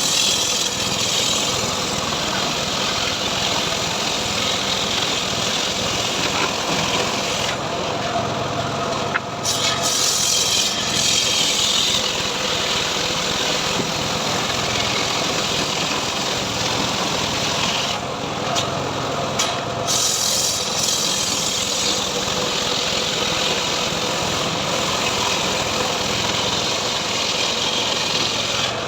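Engine-driven srekel sawmill running steadily while its saw rips through teak wood, with a loud hiss of cutting over the engine. The cutting hiss drops away twice, briefly, leaving the engine and blade running.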